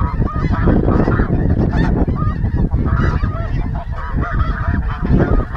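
A large flock of snow geese calling overhead: many short, high honks overlapping continuously, over a steady low rumble.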